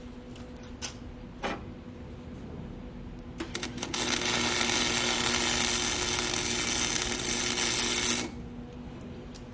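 Electric welder welding rebar: a few clicks, then about four seconds of steady arc noise that stops abruptly, with a steady hum underneath.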